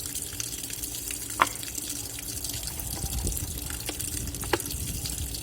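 Hot water running steadily into a Black&Decker washing machine tub, with two sharp plastic knocks about a second and a half in and near the end.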